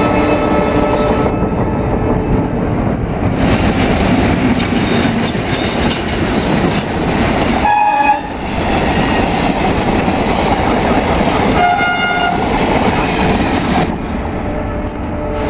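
Diesel-hauled passenger trains passing close by at speed: a steady heavy rumble of locomotive and coaches with wheels clattering over the rail joints. A train horn blows briefly about 8 seconds in, and again for about a second around 12 seconds in.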